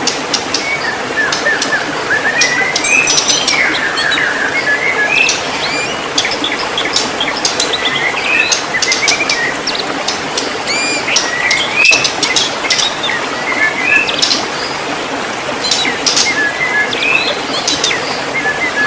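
White-rumped shama singing: short upward-sweeping whistled notes repeated every second or two, with a steady hiss and many sharp high ticks behind them.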